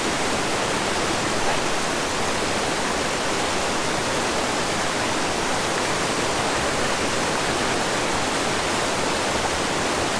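Steady rushing of a waterfall, falling water close by.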